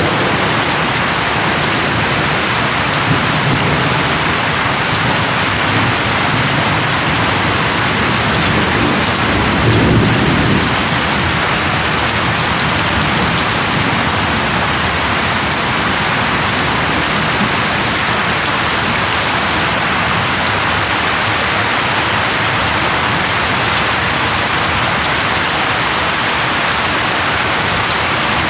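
Steady rain falling in an even hiss, with a low rumble of distant thunder rolling in about ten seconds in and a fainter one a few seconds earlier.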